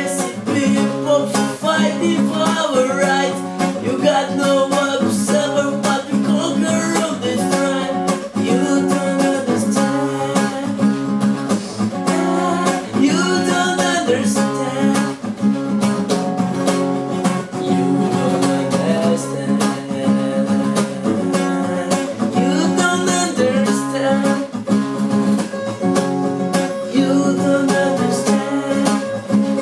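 Music: acoustic guitar being plucked and strummed.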